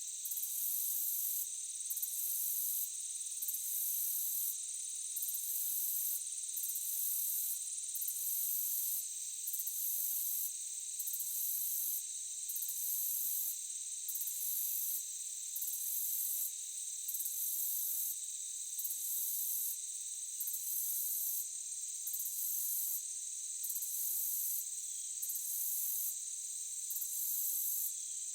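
A chorus of insects in a forest: a steady high-pitched drone, with an even higher shrill layer that breaks off briefly and resumes about every second or so.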